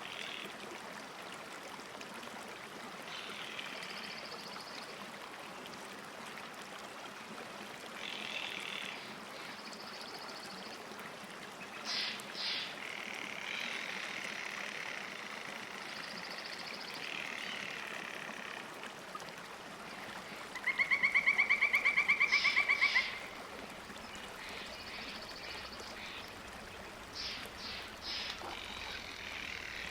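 Lakeside ambience: a steady wash of water with small birds chirping now and then. About two-thirds of the way in comes the loudest sound, a rapid even trill lasting about two seconds.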